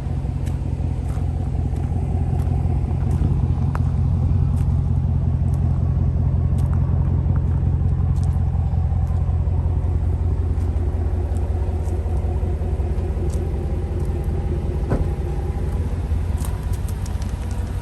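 Chevrolet Silverado 1500 pickup's engine and exhaust running under load as it drives: a loud, deep rumble that swells right at the start and then holds steady.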